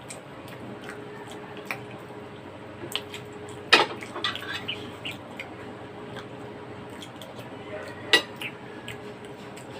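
Spoon and fork clinking against plates and bowls during a meal: a few scattered sharp clinks, the loudest about four seconds in with a short flurry after it and another near the end, over a steady low hum.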